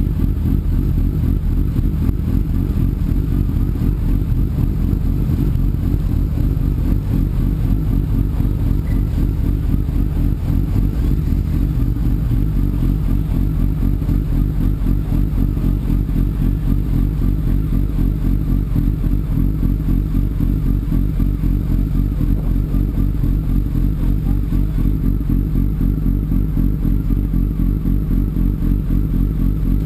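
Sport motorcycle engine running steadily, a low, even drone with no revving up or down.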